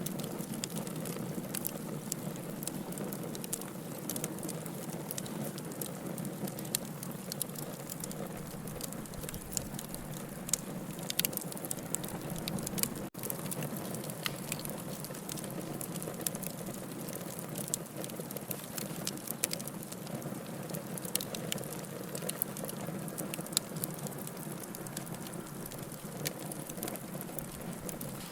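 Wood fire burning in a fireplace: a steady low rush of flames with frequent sharp crackles and pops. The sound cuts out for an instant about halfway through.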